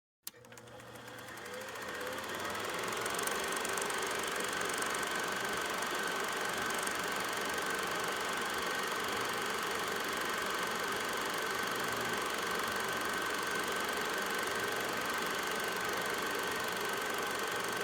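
A machine running steadily, with a fast even clatter and a steady high whine; it fades in over the first two or three seconds, then holds level.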